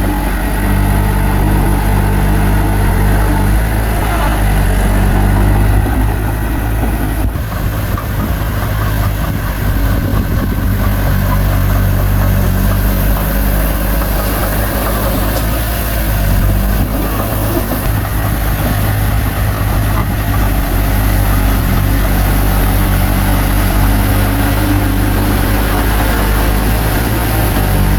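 Bulldozer's diesel engine running steadily under work, its low note shifting for a few seconds in the middle, with a single sharp knock about seven seconds in.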